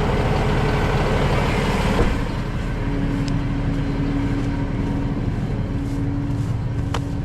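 Tow truck engine idling steadily, with a sharp click about two seconds in and another near the end, and a thin steady tone joining about three seconds in.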